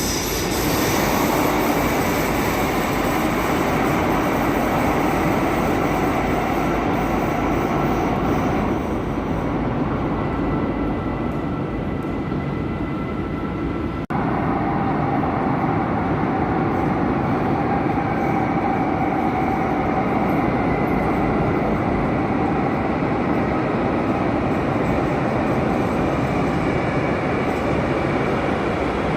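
Madrid Metro train running on the rails: a steady, loud noise of wheels and motors, with a faint steady whine over it. The sound drops out for an instant about halfway through, then carries on.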